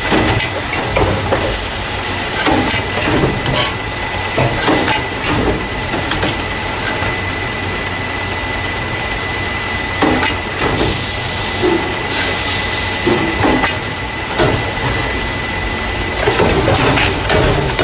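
Carton caser, the packing machine that moves paper juice and milk cartons into plastic crates, running with irregular knocks and clatter over a steady high whine and a low hum. Two short hisses come a little past the middle.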